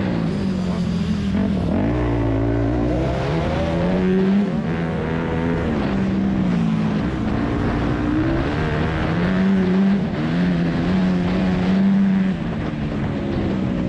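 2001 Yamaha YZ250F's four-stroke single-cylinder engine under race throttle, revving up and down through shifts and throttle changes. The pitch drops sharply about two seconds in, then climbs again.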